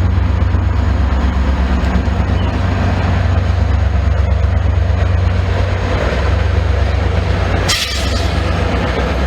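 Train passing close by, its diesel locomotive engine giving a loud, steady low drone, with a brief hiss about eight seconds in.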